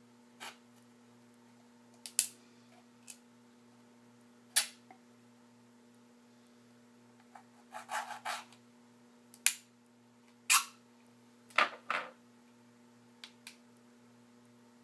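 Handling noise: about a dozen short clicks and knocks at irregular intervals, bunched around the middle and again a little later, over a faint steady hum.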